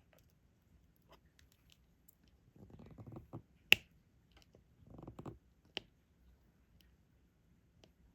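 Diamond painting stylus and plastic resin drills: scattered small clicks and ticks, two short rattling bursts a few seconds in, and a sharp click after each burst.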